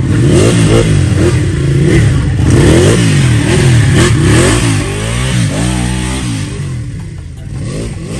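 Ducati 959 Panigale's twin-cylinder engine revving up and down in quick repeated throttle blips as the bike passes close by, growing a little fainter in the second half as it rides off.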